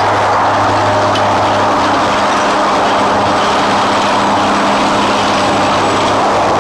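Steady traffic noise from the Golden Gate Bridge's roadway beside the walkway, a continuous rush of passing cars and trucks with a low steady hum beneath it.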